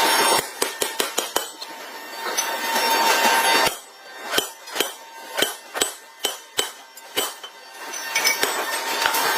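Large forging hammer striking metal: a quick run of sharp blows about five a second, then after a pause one heavy blow followed by slower single blows about two a second. A dense, steady noise fills the start and end.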